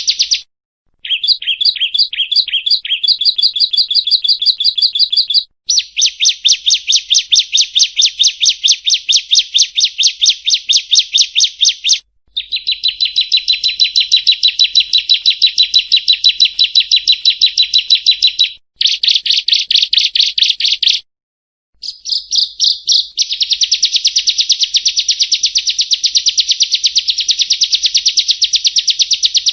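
Perenjak (prinia) song: rapid, evenly repeated chirping notes in long trilling bouts separated by brief pauses.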